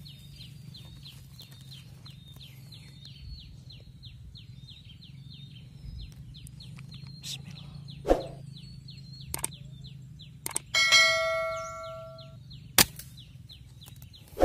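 Several sharp cracks and thumps of an air rifle being fired on birds, with a metallic ringing that lasts over a second near the middle. A fast, high, repeating chirp runs steadily underneath.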